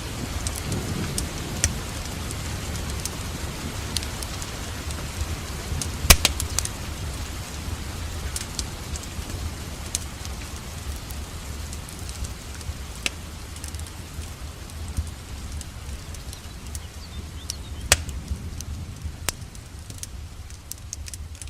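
Wood fire crackling with scattered sharp pops, two louder ones about six seconds in and near eighteen seconds. Steady rain hiss with a low rumble lies under it.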